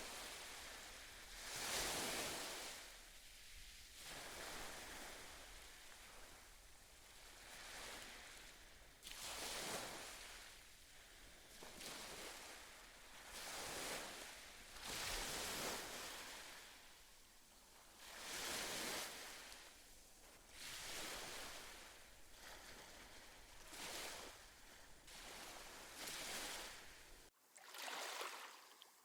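Gentle ocean waves washing onto the shore, swelling and ebbing every two to three seconds. Near the end the low rumble cuts out abruptly.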